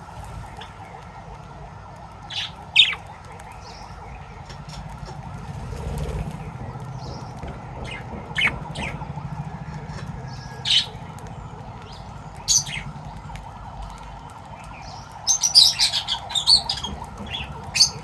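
Caged pet birds chirping and squawking: scattered sharp single calls, then a quick burst of several calls near the end, over a steady background hum.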